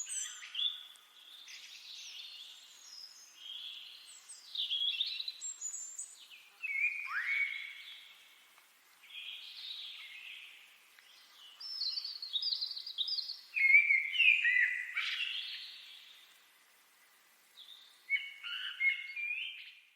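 Songbirds singing: a run of short, varied chirping and warbling phrases with brief pauses between them.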